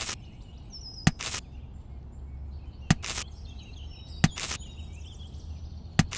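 Sharp snaps, mostly in pairs about every one and a half seconds, as cherry tomatoes are pulled off their stems by hand. Faint birdsong and a low steady hum sit behind them.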